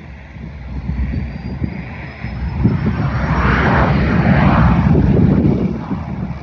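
Cirrus Vision SF50 single-engine jet taking off and passing. The sound of its turbofan swells to its loudest about three seconds in, with a thin rising whine over a low rumble, then fades near the end.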